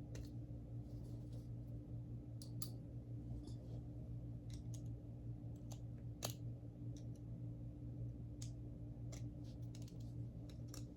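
Scattered light clicks and taps of small metal vacuum brush-roll parts being handled, with a louder click about six seconds in, over a steady low hum.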